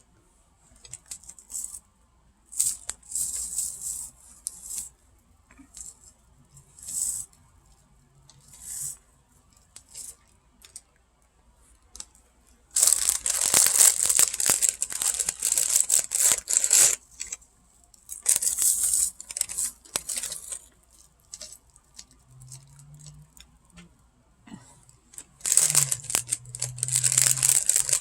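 Crinkly plastic food packaging being handled and torn, in irregular bursts of crackling and tearing with short pauses between, the longest stretches in the second half.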